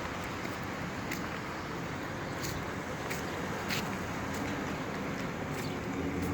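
A motor vehicle's engine running steadily with a low hum, its pitched note growing stronger in the second half, with a few scattered light clicks.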